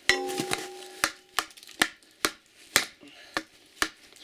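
An axe repeatedly striking a tough Soviet-era hard plastic box, about two blows a second, without breaking it. The first blow sets off a short metallic ring.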